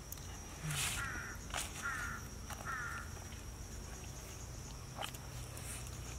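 A bird calls three times, about a second apart, over a steady high insect drone. A few light clicks and rustles come from woven baskets being handled.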